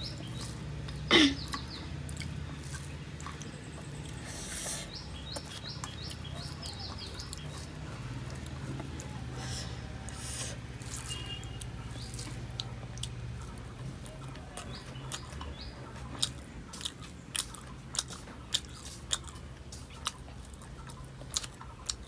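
Close-miked chewing and wet mouth sounds of someone eating rice and curry by hand, with many small smacks and clicks. There is one loud, short, falling squeak about a second in, and a run of sharper smacks about every half second near the end. Birds chirp faintly in the first few seconds.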